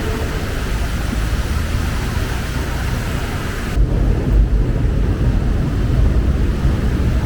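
Steady city street noise: a heavy low traffic rumble under an even hiss. The hiss cuts off abruptly about four seconds in, leaving the rumble.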